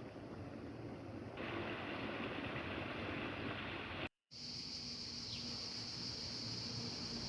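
Outdoor background noise, a steady rushing hiss with no clear single source, broken by a brief dead-silent cut about four seconds in; after the cut a steady high hiss sits over it.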